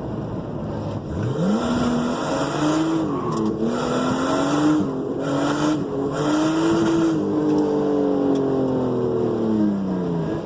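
Drift car's engine revving up hard about a second in and held at high revs with tyre squeal, then easing off and falling in pitch near the end.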